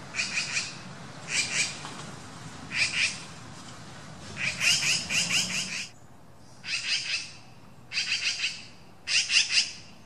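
Small pet birds chirping in short bursts of rapid, scratchy notes, about seven bursts with brief pauses between them, the longest lasting about a second and a half near the middle.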